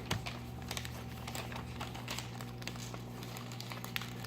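Faint rustling and small crinkles of notebook paper being folded and creased by hand, over a steady low hum.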